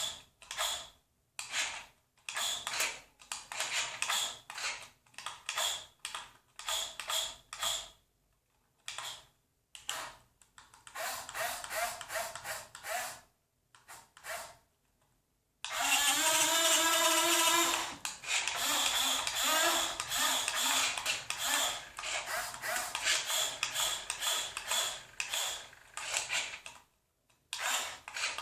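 Radio-controlled model's electric motor and gearbox whirring in many short stop-start bursts as it is driven back and forth, with brief silent gaps between moves. About two-thirds of the way in, a louder, more tonal whine lasts roughly two seconds.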